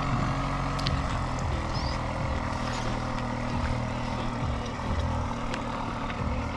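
A motor running steadily: a low, even drone under a rushing noise.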